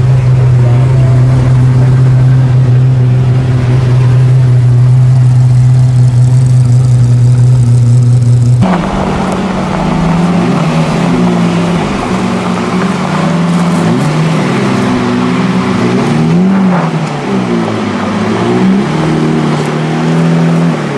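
Supercar V12 engines. First a steady low engine drone as a McLaren F1 moves slowly. Then, after an abrupt change about nine seconds in, a Lamborghini Reventon's V12 is revved again and again, its pitch rising and falling.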